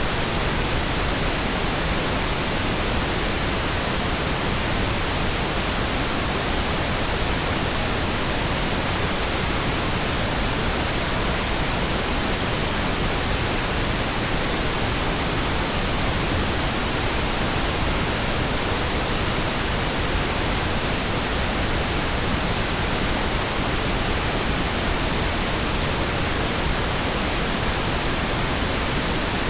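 Synthetic pink noise: a steady, even hiss with no changes.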